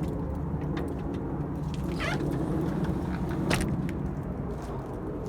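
Steady low rumble of a vehicle engine, with a short wavering squeal about two seconds in and a few faint clicks.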